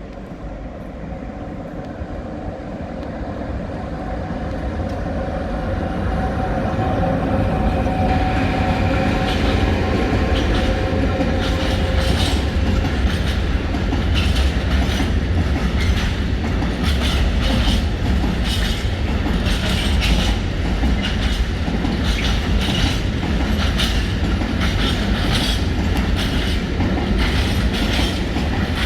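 A train approaching and running through close by. It grows steadily louder over the first several seconds into a steady heavy rumble, with rapid clickety-clack of wheels over rail joints and points.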